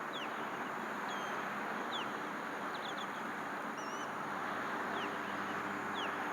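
Birds calling: short, high, down-slurred chirps about once a second, with a quick cluster near the middle, over a steady rushing background noise.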